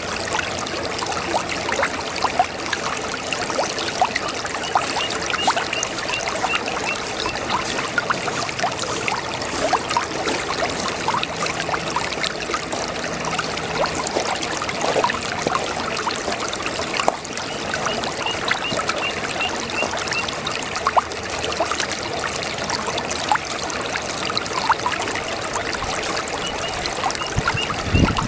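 Brook water babbling and trickling steadily, a continuous run of small splashes.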